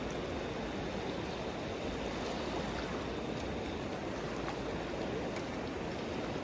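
River water flowing steadily, an even rushing noise with a few faint small ticks.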